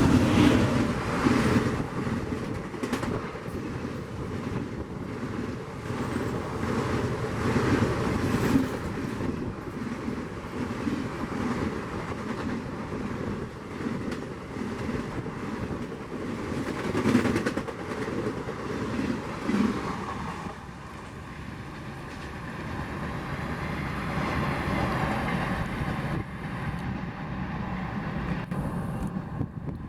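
Express passenger train passing at speed, its coaches rattling with repeated clickety-clack of wheels over rail joints. About twenty seconds in the rattle dies down to a quieter steady rumble.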